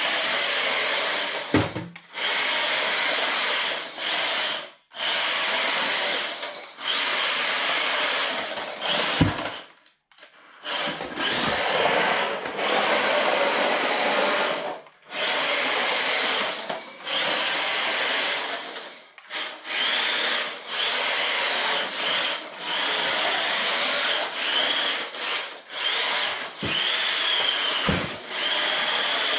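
Brushed 370 electric motor and drivetrain of a JJRC Q123 1/16 scale RC drift truck whining in repeated bursts as the throttle is worked on and off, the pitch rising and falling with speed, with short pauses between bursts and a few low thumps.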